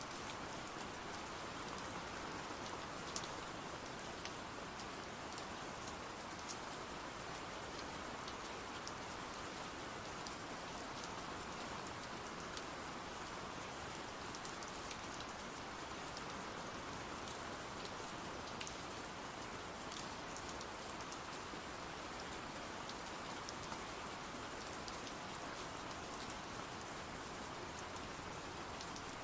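Steady rain falling, an even hiss with scattered faint sharp ticks.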